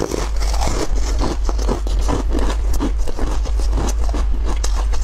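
Close-miked biting and crunchy chewing of a yellow frozen treat: a rapid, uneven run of crackling crunches.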